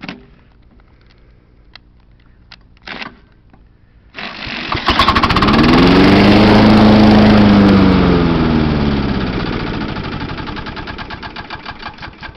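1996 John Deere JX85 mower's small engine on choke catching about four seconds in, running up briefly, then slowing and dying out, its firing strokes spacing out near the end. It will not keep running, a fault the owner traced to a rust-corroded carburetor.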